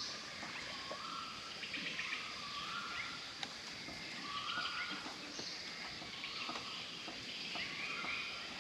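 Birds calling in short repeated notes over a steady outdoor background hiss.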